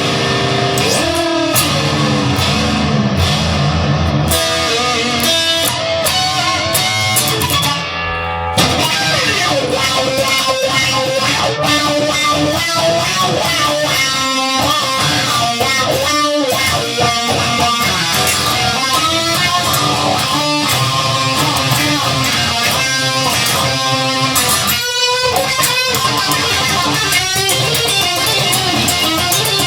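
Instrumental rock music led by electric guitar, with bass guitar under it, playing without a break; the texture changes about eight seconds in.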